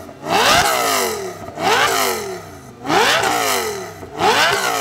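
Car engine revved hard four times, about 1.4 s apart. Each rev climbs quickly in pitch and then falls away more slowly as the throttle is released.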